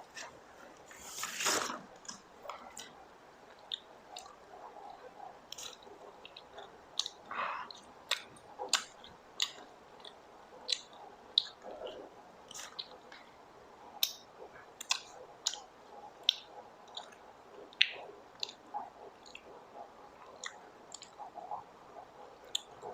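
Close-miked chewing of popcorn: irregular small sharp crunches and mouth clicks, with a louder noisy stretch about a second in.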